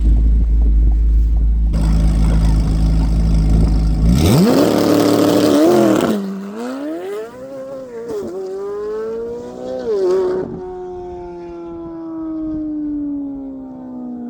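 2024 Corvette C8 Z06's flat-plane-crank V8 through a modified, very loud exhaust, held at launch-control revs for about four seconds, then launched: the revs shoot up and climb through quick upshifts about two seconds apart. Near the end the engine note falls away steadily as the car backs off.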